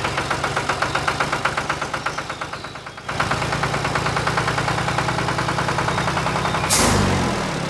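A small engine running with a rapid, even chugging pulse. It breaks off about three seconds in and picks up again at once. Near the end a loud burst of noise sounds while a pitch drops away.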